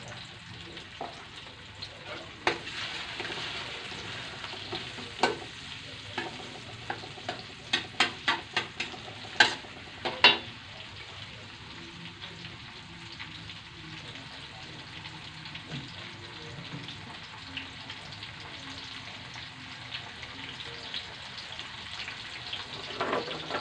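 Spice paste of shallots, chili and tomato sizzling steadily in oil in a stainless steel wok. In the first half, a metal spatula knocks and scrapes against the wok in a run of sharp clicks, loudest about eight to ten seconds in; after that only the sizzle remains.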